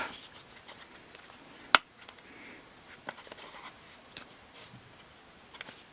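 Plastic washing-machine pump parts being handled and pried: one sharp click a little under two seconds in, then a few faint taps and light handling noise.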